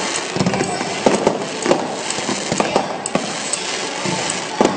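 Aerial firework shells bursting in quick succession, with irregular bangs over a continuous crackle of glittering stars, and a loud bang near the end.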